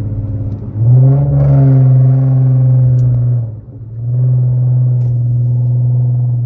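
Infiniti Q50's 3.7-litre V6 droning through a loud aftermarket exhaust with test pipes, getting much louder about a second in as the car accelerates. The sound drops off briefly about three and a half seconds in, then comes back loud and steady.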